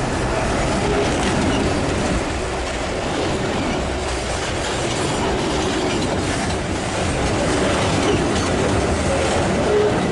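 Freight train rolling by on the rails: a steady rumble of wheels with clickety-clack over the rail joints and faint wheel squeal now and then.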